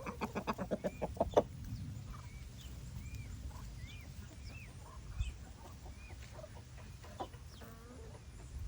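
A fast run of clucks from an adult fowl for the first second and a half, then peachicks peeping softly: thin, arched chirps about twice a second over a low rumble.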